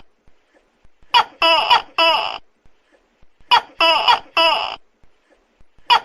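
Tokay gecko calling: loud, harsh 'to-kek' calls in two bursts of three notes each, about two and a half seconds apart.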